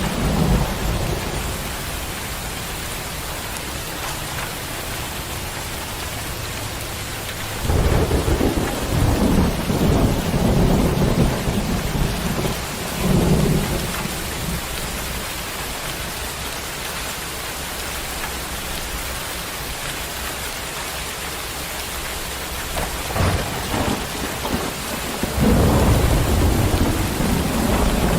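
Thunderstorm: steady rain falling, with rolling thunder. A long rumble starts about a quarter of the way in and lasts several seconds, a short crack comes near two-thirds of the way, and another rumble begins near the end.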